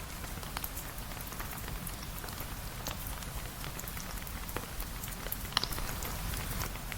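Steady rain falling, with scattered sharp crackles and pops from a wood fire; the loudest pops come about three seconds in and near the end.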